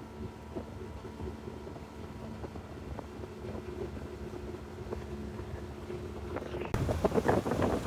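Motorboat engine running steadily at a constant pitch. About seven seconds in, it gives way abruptly to a louder, choppy rush of wind buffeting the microphone.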